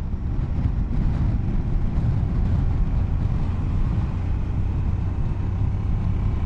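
Motorcycle engine running as the bike is ridden along, with wind and road noise. It gives a steady low note that wavers in the first few seconds.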